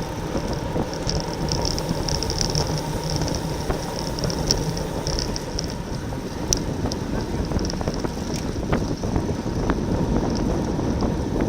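Wind rushing over the microphone of a camera on a racing bicycle at speed, with a high buzzing from the bike's drivetrain that comes and goes and a few light clicks.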